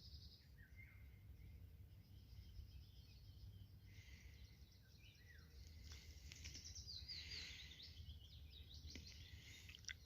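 Faint birdsong: many small birds chirping and trilling, busiest in the middle, over a steady low background rumble.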